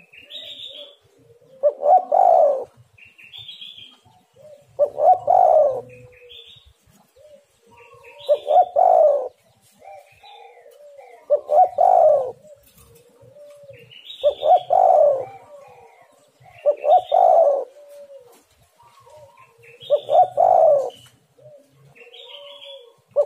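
Spotted dove (tekukur) cooing its repeated call, one loud phrase about every three seconds, with short high chirps from other birds in the gaps.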